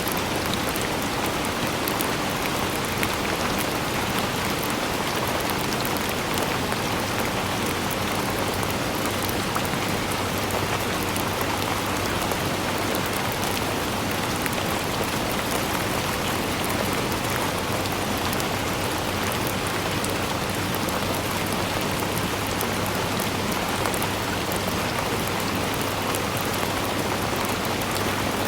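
Steady rain falling, an even hiss of many drops with faint patter throughout, without any break or change in strength.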